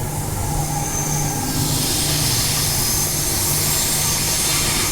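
A-series electric train running along the track, heard from on board: a steady motor hum with a rushing noise that swells up about a second and a half in, with a thin high whine.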